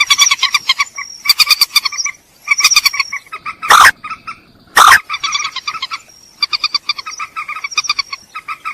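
Purple swamphen calling: runs of rapid, short, nasal clucking notes in repeated bursts, broken by two much louder harsh screeches about four and five seconds in.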